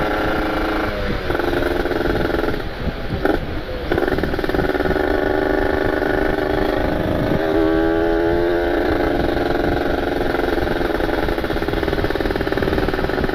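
A ported Kawasaki Ninja 150 RR's two-stroke single-cylinder engine running under way at low to mid revs, still being run in. Its note dips briefly about a second in and again around three seconds in, then holds steady with a shift in pitch near the middle.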